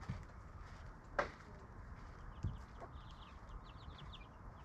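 Chickens faintly clucking and chirping, with a sharp chirp about a second in and a quick run of short, high chirps near the end.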